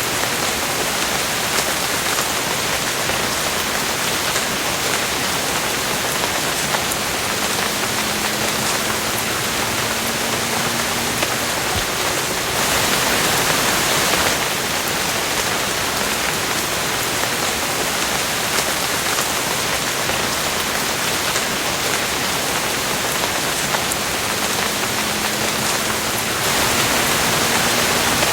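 Steady rain, an even hiss of drops falling on a surface, swelling slightly twice.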